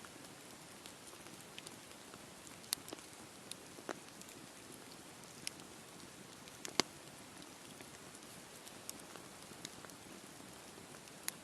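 Wood campfire burning: a soft steady hiss with scattered sharp crackles and pops, the loudest pop about seven seconds in.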